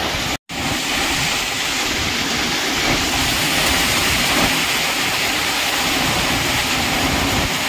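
Heavy rain pouring steadily, a dense, even hiss of rain falling on water and ground, with a momentary cut-out about half a second in.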